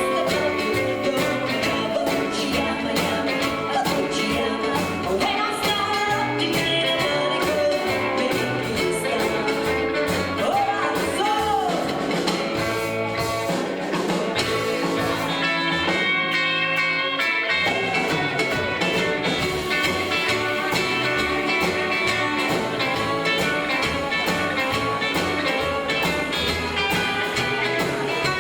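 Live rockabilly band playing a song with a singer, guitar, a pulsing bass and drums. The bass and drums stop for a moment about halfway through, then the band comes back in.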